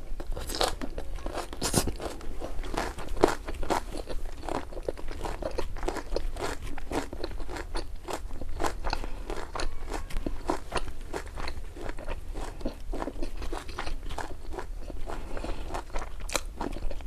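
Close-miked mouth chewing a mouthful of spicy ramen noodles, a steady run of wet clicks and smacks about two to three times a second.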